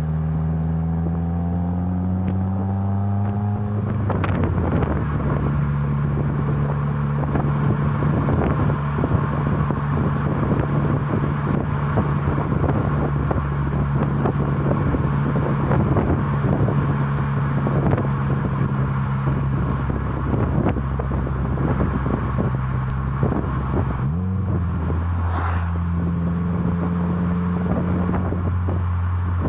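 2018 Subaru WRX turbocharged flat-four running steadily through an ISR MBSE catback exhaust with an added resonator, as the car is driven. From about four seconds in, heavy wind buffeting on the microphone covers much of it. Near the end the engine pitch rises briefly and the exhaust note comes through clean again.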